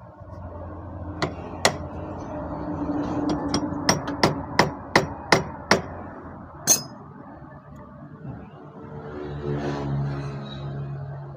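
Metal hammer blows, about nine sharp ringing strikes, most in a quick run in the middle, struck on a flywheel puller to break the magneto rotor free of the crankshaft.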